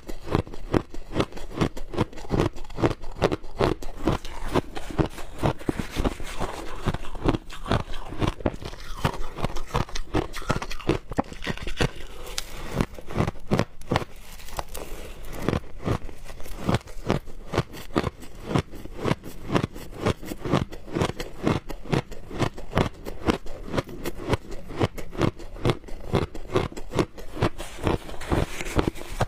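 Close-up crunching and biting of frozen shaved ice, a dense run of crisp crunches several times a second.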